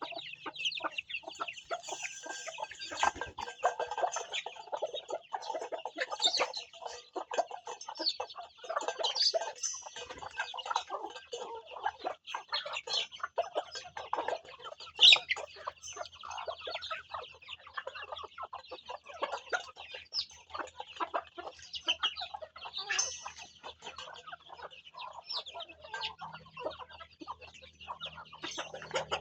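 Backyard chickens clucking, with a steady chorus of high chick peeping throughout.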